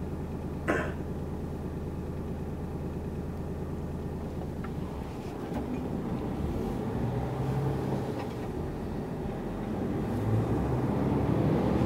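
Truck's diesel engine and road noise heard from inside the cab while driving. A steady low drone for the first half, then about five seconds in the engine note changes, rising and falling a couple of times.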